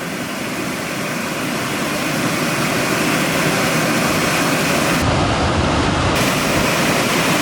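Waterfall: a steady, even rushing of falling water. For about a second past the middle it turns deeper and duller.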